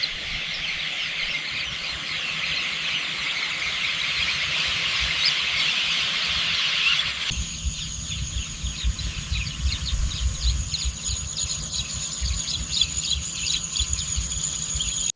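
Dense chattering of a flock of small birds, many overlapping chirps at once. About seven seconds in it cuts to a steady high-pitched buzz with scattered chirps over a low wind rumble.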